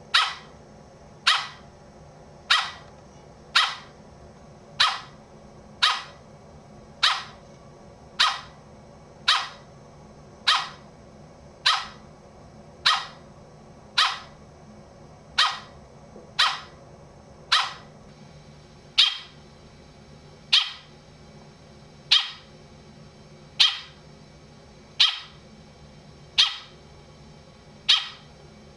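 A short, sharp animal call repeated at a steady pace, about one every 1.2 to 1.5 seconds, some two dozen times.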